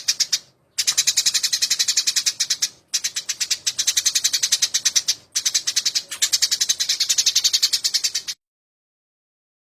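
Eurasian tree sparrow (burung gereja) giving rapid, scolding fighting calls: fast runs of sharp chirps at about ten a second, broken by short pauses. The calls stop about a second and a half before the end.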